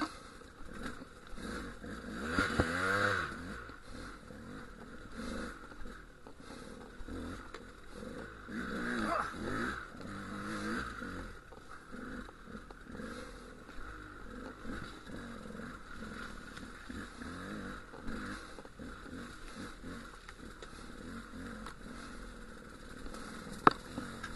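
Dual-sport motorcycle engine blipping the throttle in bursts, its pitch rising and falling, while the bike picks its way over rough lava rock. A single sharp knock comes near the end.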